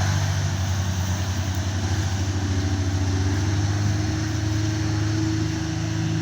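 Belarus 510 tractor's diesel engine running steadily with an even, fast firing pulse.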